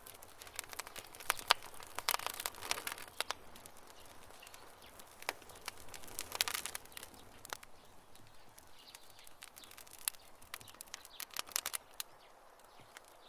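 Wood campfire crackling, with sharp pops and snaps coming in clusters over a faint steady hiss.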